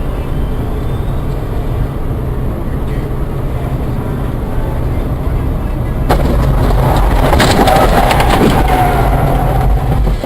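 Steady low rumble of a vehicle driving, heard through a dashcam. About six seconds in there is a sudden sharp crack, and louder noise with a held tone follows for about four seconds before dropping away.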